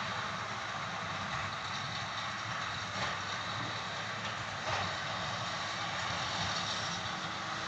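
John Deere tractor running steadily while pulling a straw baler, with a few faint knocks from the machinery.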